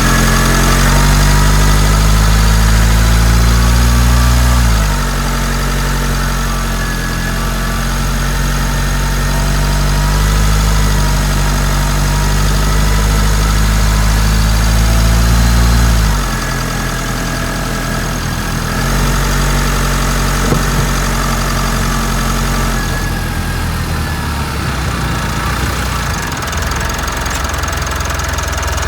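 Mitsubishi Delica D5 diesel engine running in the engine bay with diesel clatter. Its engine speed drops in steps about five seconds in and again about sixteen seconds in, and it idles more roughly after the second drop.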